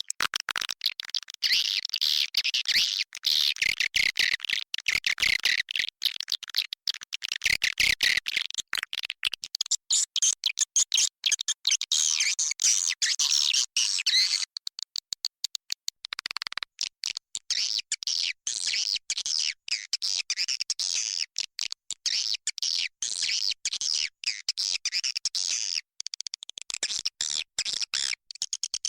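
Swiftlet lure call: dense, rapid high-pitched twittering and chirping of edible-nest swiftlets, the recorded call played at swiftlet houses to attract the birds to roost and nest. It breaks off briefly about halfway through.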